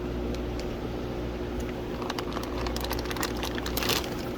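Steady electrical hum of aquarium equipment, with a run of crinkling and clicking from about halfway, loudest near the end, as bagged fish are handled out of the shipping box.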